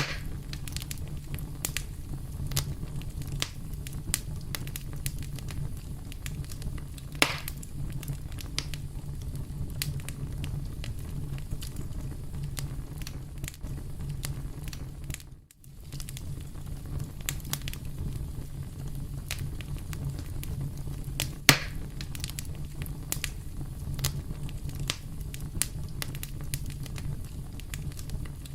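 Campfire burning: a steady low rumble of flame under constant small crackles, with two louder pops, about seven seconds in and about twenty-one seconds in. The sound dips out briefly about halfway through.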